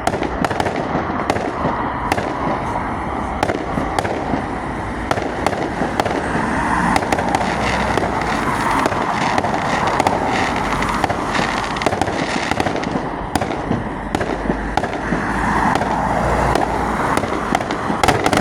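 Firework display: a continuous run of sharp bangs over dense crackling, many reports overlapping with no pause.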